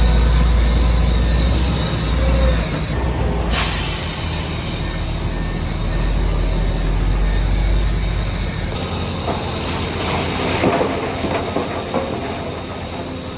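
Heavy earthmoving machinery at work: a steady low diesel rumble with hiss and a few faint squeals. The low rumble eases about nine seconds in, and a few seconds of crackling and clanking follow.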